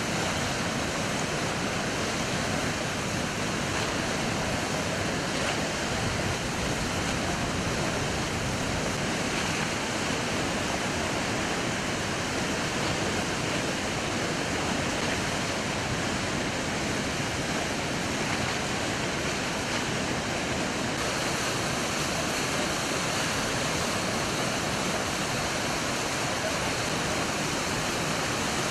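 Düden Waterfall in flood after heavy rain: a high, fast, muddy flow of water rushing and falling in a steady, unbroken roar.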